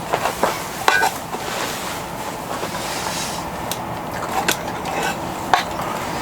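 Scattered light clicks and knocks of objects being handled, over a steady rushing background noise.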